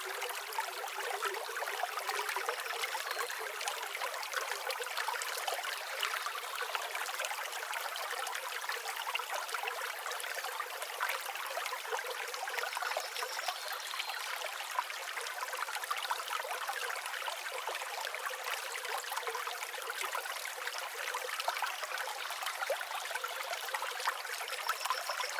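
Steady running stream, water trickling and babbling evenly, with a few faint high chirps.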